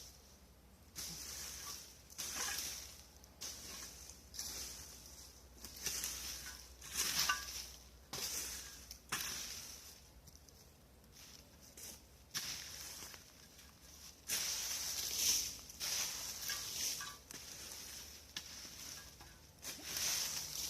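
Irregular rustling and crunching of fallen branches and dry leaves being moved about, in uneven bursts a second or two apart.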